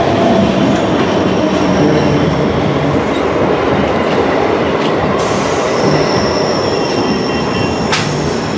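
Local passenger train alongside the platform, its coaches giving a steady heavy rumble; a high steady squeal joins about five seconds in, and there is one sharp knock near the end.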